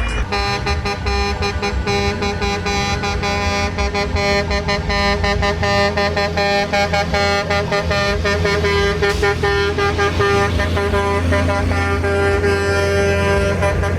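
A truck's multi-tone air horn held as a steady chord of several notes, sounding almost without a break.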